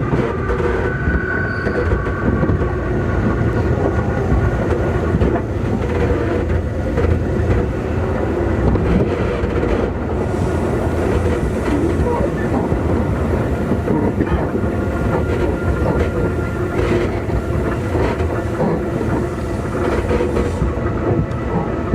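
Running sound heard inside a Keikyu 2000 series electric train car: a steady wheel-and-rail rumble with rail-joint clacks. Faint whining tones come and go over it.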